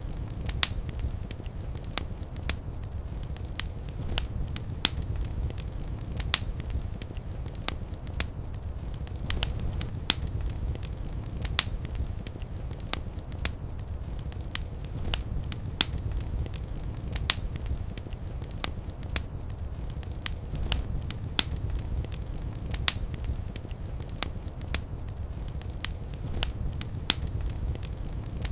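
Fireplace fire crackling: a steady low rumble of flames with frequent sharp pops and snaps at irregular intervals.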